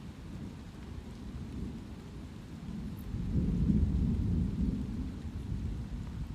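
Steady light rain with a roll of distant thunder that swells about three seconds in, rumbles deep and low for a couple of seconds, then slowly fades back under the rain.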